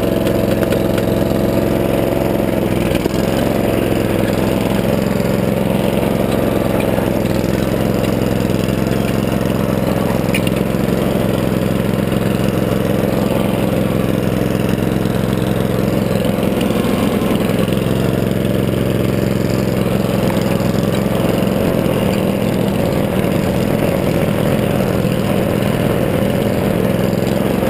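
Small gas engine running steadily, with an even, unchanging note.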